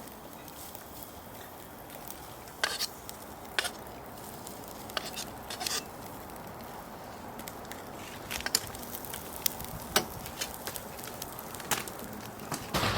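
Wood fire crackling: irregular sharp pops over a steady hiss.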